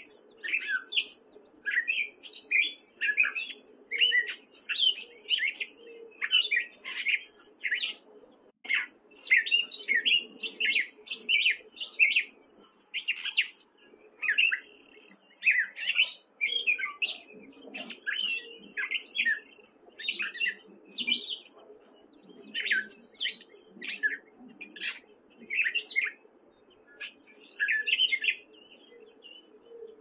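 Gray catbird singing: a long, rambling run of short, varied squeaky and whistled phrases, each unlike the last, about two a second.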